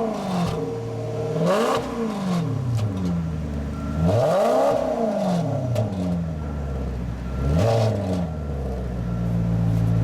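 2007 Maserati Quattroporte's 4.2-litre V8 exhaust as the engine is revved in three throttle blips, each rising and falling back in pitch, the middle one the longest. It settles to a steady idle near the end.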